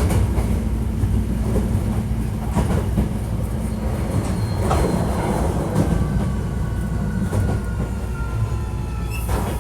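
Hankyu 1300 series electric commuter train heard from inside the car while running: a steady rumble of wheels on track with scattered clacks over rail joints. From about halfway a thin traction-motor whine falls slowly in pitch as the train slows for the station.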